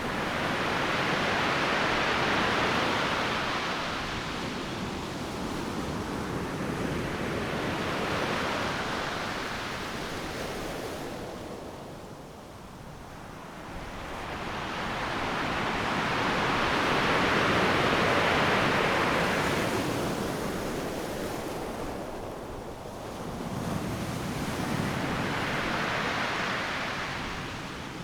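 Ocean surf breaking on a beach: waves crash one after another, each wash swelling and then fading, with lulls about halfway through and again near the end, and the loudest break about two-thirds of the way in.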